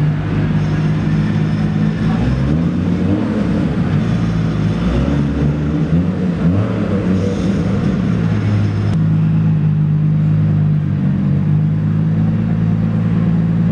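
A car engine idling with a deep, steady rumble, its pitch shifting up and down a couple of times in the first half before settling.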